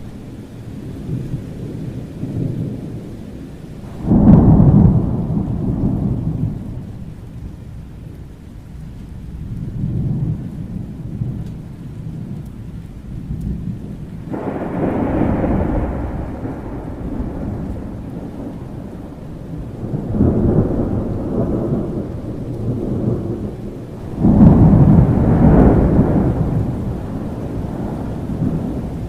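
Thunderstorm: steady rain with rolling thunder, four loud low rumbles swelling and fading, the first breaking suddenly about four seconds in and the last, just as sudden, near the end.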